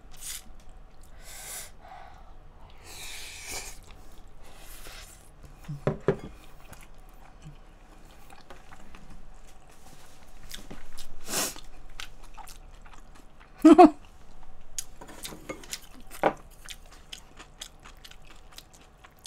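Close-miked chewing and wet mouth sounds of someone eating kimchi fried rice, with short sharp clicks of a spoon and chopsticks against bowls. A couple of brief vocal sounds break in, the louder one about fourteen seconds in.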